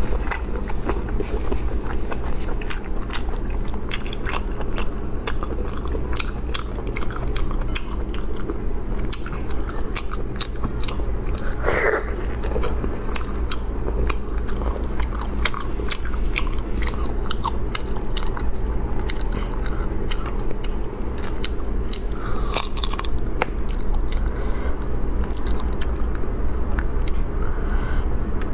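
Close-miked chewing and sucking of marinated sea snails, a steady run of small wet clicks and crunches, over a steady low hum.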